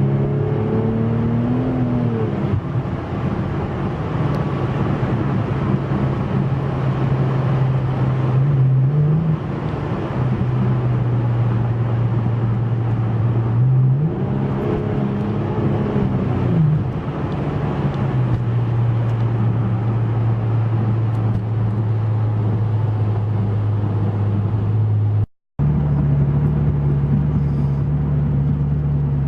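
Porsche 996 Turbo's twin-turbo flat-six through a Fabspeed exhaust, heard from inside the cabin while driving: a steady low engine note with wind noise over the windshield. The revs rise and fall twice, about a second in and again around fourteen seconds in, and the sound cuts out briefly near the end.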